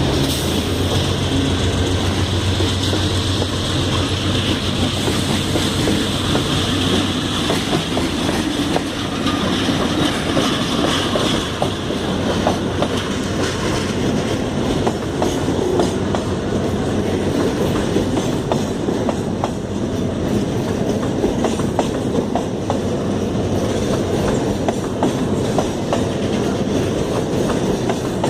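Freight train rolling past at close range. A steady low drone with a high whine fades out about ten seconds in, leaving the rattle of the wagons and the rhythmic clicking of their wheels over the rail joints.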